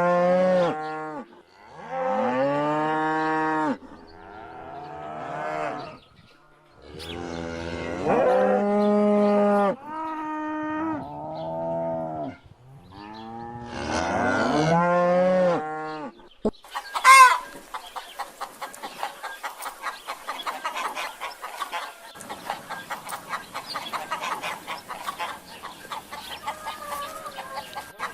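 Cattle mooing: about six long, drawn-out calls one after another. Near the end these give way to a short loud call and a rapid, steady run of chickens clucking.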